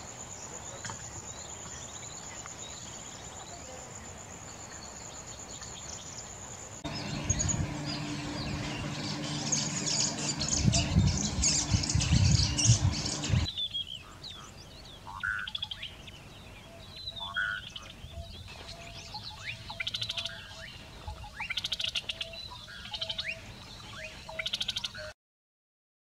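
Bushshrikes and boubous calling in a run of short clips cut together, first faint, then louder over a low steady hum. In the last part, short calls and quick trills repeat every second or two. The sound cuts off abruptly just before the end.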